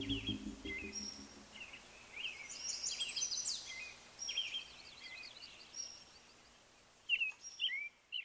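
Small songbirds chirping: scattered short calls, a quick trill, and a run of repeated notes, with a few louder downward-sliding chirps near the end. A low sustained music chord fades out in the first second.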